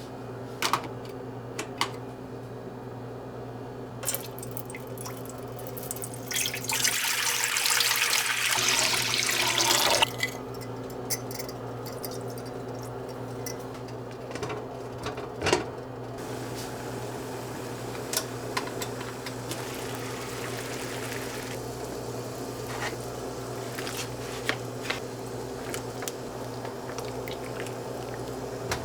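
Kitchen tap running for about three seconds, starting a little over six seconds in, with scattered light clicks and knocks of kitchen handling over a steady low hum.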